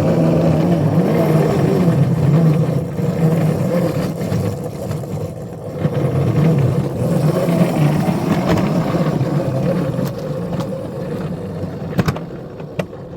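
Small railroad locomotive's engine running steadily. The sound eases off in the last few seconds, with a few sharp clicks near the end.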